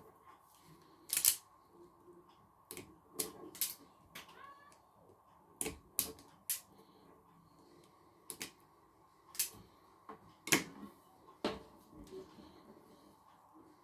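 About a dozen sharp, irregular clicks and snaps of hand tools working on cable wires and connectors.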